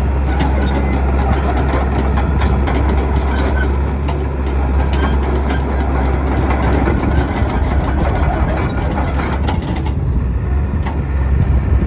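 Caterpillar 312 BL hydraulic excavator running and working: a steady diesel engine drone with repeated metallic clanks and knocks, and two brief high-pitched whines, about five and seven seconds in.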